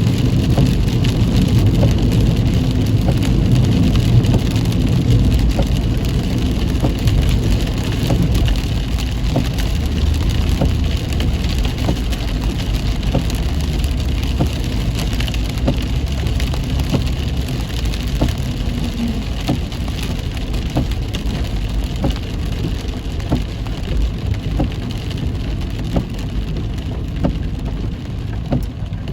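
Heavy rain hitting a moving car, heard from inside: many separate drop hits over a steady low rumble of engine and road.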